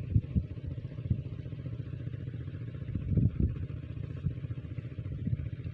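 Small diesel engine driving a water pump, running steadily with a low, dense throb and irregular louder thumps.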